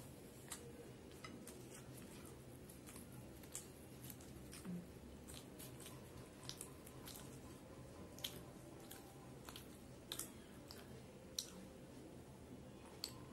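Close-miked chewing of grilled chicken and paratha: soft, wet mouth clicks and smacks at irregular moments.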